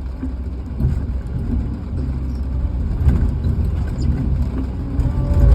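A vehicle engine running, a low uneven rumble with a few light knocks.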